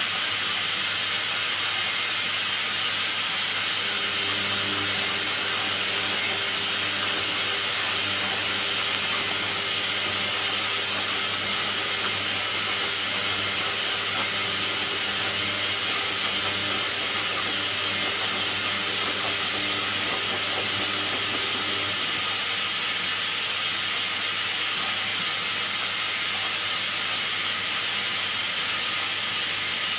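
Hoover washing machine on its final rinse, water hissing steadily through the inlet as the drum fills, with a low hum underneath. A faint steady tone joins in about four seconds in and stops about two-thirds of the way through.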